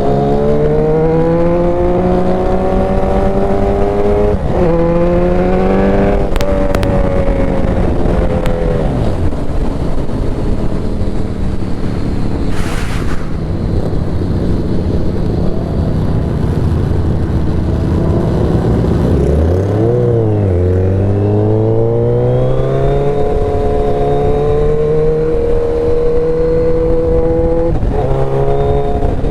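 Motorcycle engine running under way, its pitch climbing through each gear and dropping at the shifts: a few quick up-shifts early on, easing off, then a dip and a long climb to a shift near the end.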